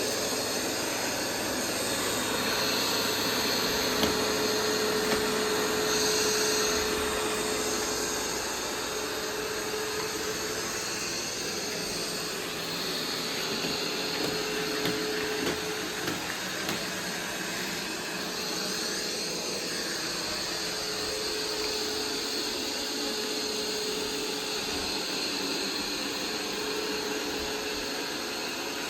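Roomba 505 robot vacuum running steadily, a constant motor and brush whir with a held hum, broken by a few light clicks and knocks.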